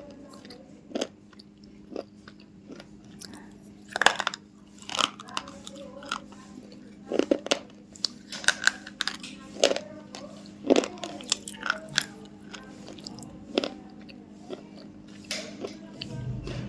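A person biting into and chewing crunchy food close to the microphone, with irregular sharp crunches and swallowing, over a steady low hum.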